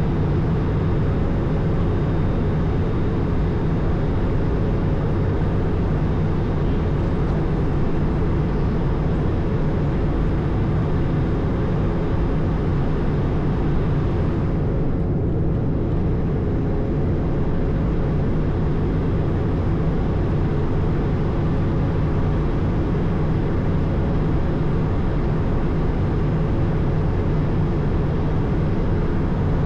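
Steady cockpit noise of an Airbus A220 with its Pratt & Whitney PW1500G geared turbofans running: a constant low drone and rush of air with faint steady hums. The high hiss dips briefly about halfway through.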